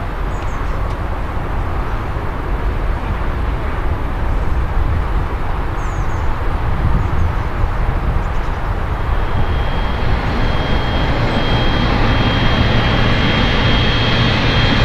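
Boeing 777-300ER's GE90 jet engines running as the airliner taxis: a steady rumble and rush, joined about two-thirds of the way through by a high, steady whine that grows louder along with the rumble.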